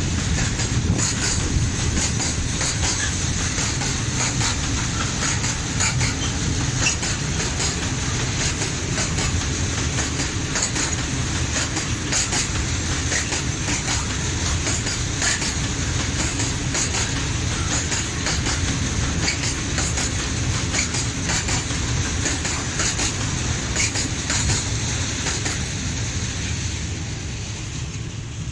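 Freight train of open-top wagons rolling past, its wheels clicking over the rail joints in an irregular patter. The sound fades away in the last couple of seconds as the end of the train passes.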